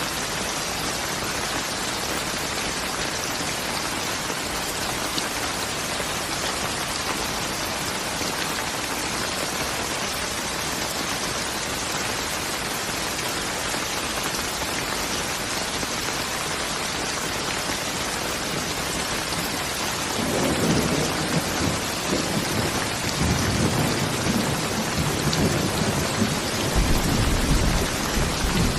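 Steady heavy rain falling, with rolling thunder rumbling in about twenty seconds in and growing louder near the end.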